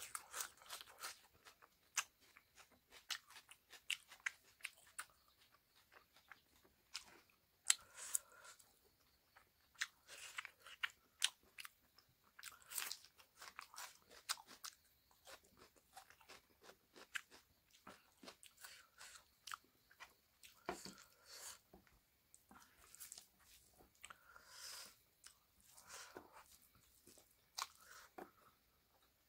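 Close-miked eating: a person chewing and biting, with wet mouth clicks and smacks in an irregular rhythm and crisp crunches as raw onion is bitten into.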